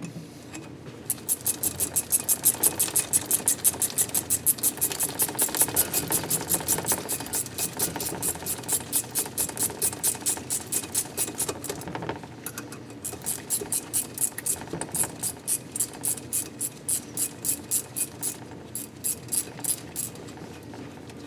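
Rapid, even strokes of a hand tool working on bolt threads, about five a second, stopping briefly about twelve seconds in and then starting again.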